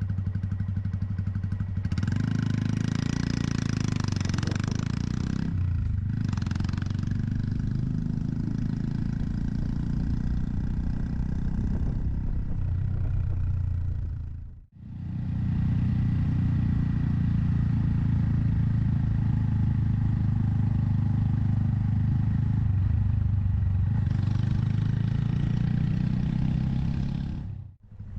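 Honda Monkey 125's single-cylinder four-stroke engine running steadily under way, with rushing wind noise that swells for a few seconds near the start and again near the end. The sound cuts out briefly about halfway through and again near the end.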